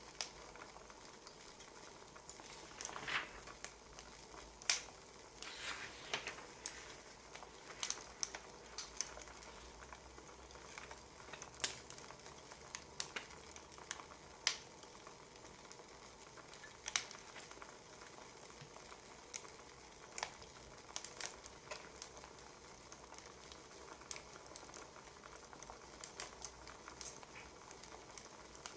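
Wood fire crackling: irregular sharp pops and snaps, a few a second, over a soft steady hiss.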